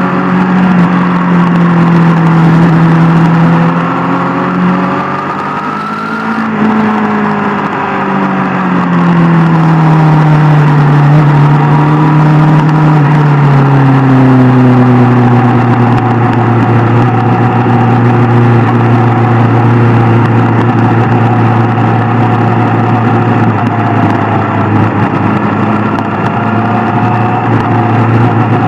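Superbike engine running under way. Its pitch rises sharply about six seconds in, falls back gradually over the next several seconds, then holds at a steady lower note.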